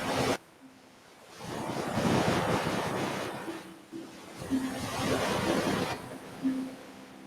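Ocean surf washing in, two swelling waves with quieter lulls between them.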